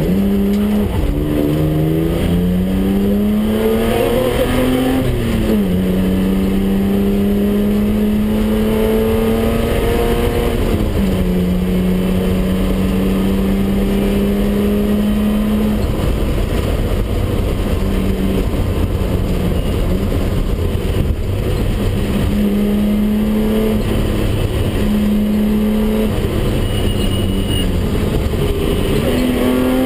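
BMW 320/6's straight-six engine heard from inside the cabin at full effort on a rally stage: the revs climb and then drop at upshifts about 5 and 11 seconds in, hold steady for stretches, and rise and fall with the throttle through the bends.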